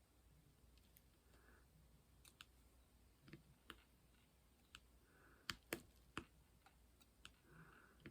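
Faint, scattered small clicks and taps of diamond-painting work: a drill pen picking up and pressing resin drills onto the canvas. The loudest is a close pair of clicks about five and a half seconds in.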